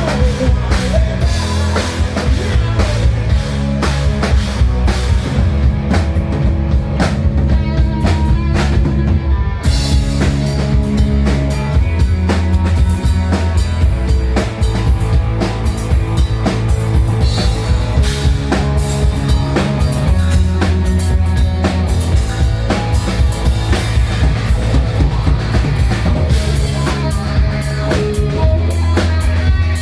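Live hard rock band playing loud, with driving drum kit, bass and guitar. The top end thins out for a few seconds, then the full band comes back in about ten seconds in.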